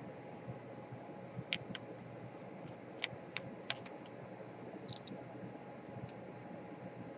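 Scattered light clicks and taps of small tools and parts on a laptop being taken apart, a dozen or so spread unevenly over a faint steady hiss.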